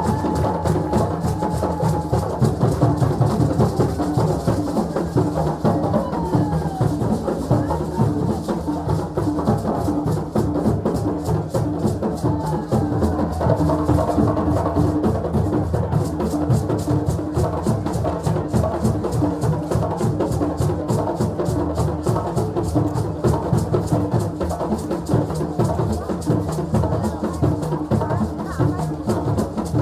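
Drums and percussion playing a fast, steady rhythm, with voices mixed in.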